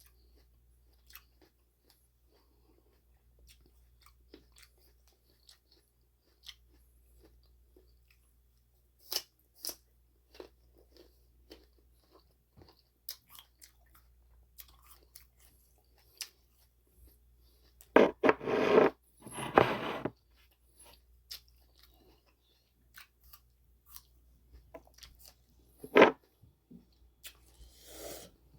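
A person chewing and biting crisp crab apples: soft wet clicks and crackles of chewing, with two loud crunching bites about two-thirds of the way through and another sharp crunch near the end.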